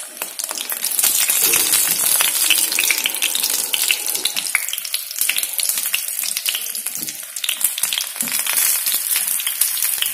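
Stuffed pointed gourds (potol) sizzling and crackling in hot mustard oil in a frying pan as more are laid in, the sizzle swelling loud about a second in and holding with dense spitting crackles.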